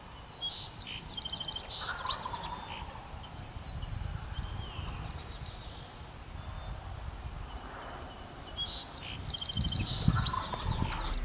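Wild turkey gobbler gobbling, about two seconds in and again near ten seconds, among songbird chirps and trills.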